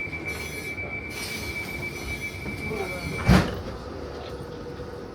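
Regional train's wheels squealing on the rails in a steady high tone, which stops abruptly about three seconds in with one loud thump; a lower steady hum continues after it.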